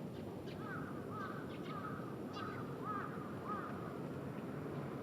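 A bird calling in a quick series of short arched notes that stops about two-thirds of the way through, over a steady low background rumble.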